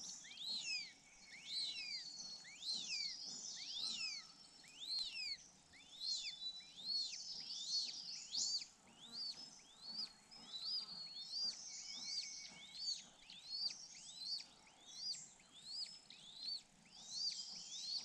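A bird calling in a rapid series of high whistled notes, each rising then falling, about one and a half a second, with other birds chirping behind.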